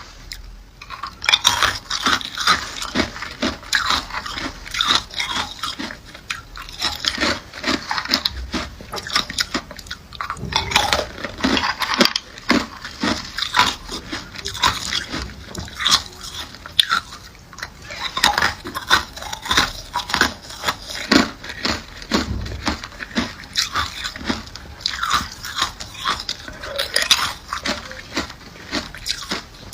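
A person biting and chewing ice close to the microphone: a long run of crisp crunches, with loud bites coming every second or so.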